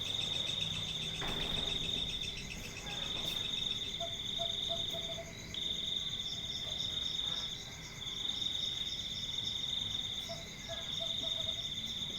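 Crickets trilling in a steady high-pitched chorus that drops out briefly every couple of seconds. A faint run of short, lower notes sounds twice, about four seconds in and near the end.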